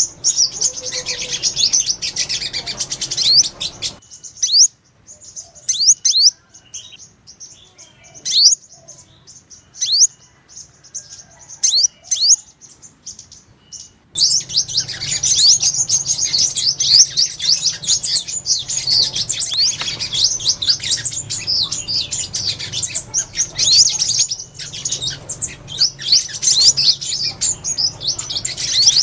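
Sunbirds chirping and twittering: a dense run of quick, high, sharp notes. About four seconds in it thins abruptly to scattered single chirps, and about ten seconds later the dense twittering starts again.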